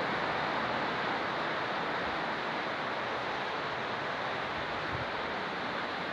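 Heavy rain in a downpour: a steady, even hiss with no breaks.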